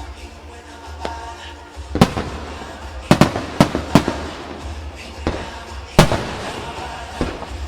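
Aerial fireworks shells bursting in a string of sharp bangs, with the loudest about two and six seconds in and a quick cluster around three to four seconds in, over background music.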